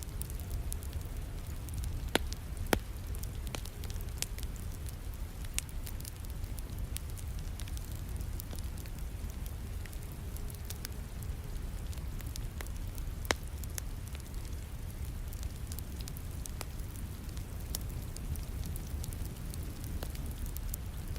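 Fireplace wood fire crackling, with scattered sharp pops over a steady bed of rain noise. The loudest pops come two close together a couple of seconds in and one more about two-thirds of the way through.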